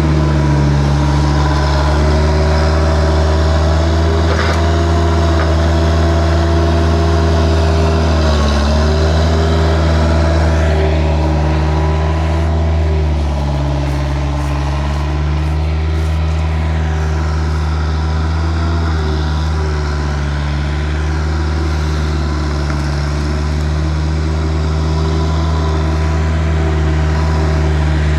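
Vehicle engine running steadily at a constant speed, its pitch dipping briefly about eight seconds in and settling slightly lower around thirteen seconds.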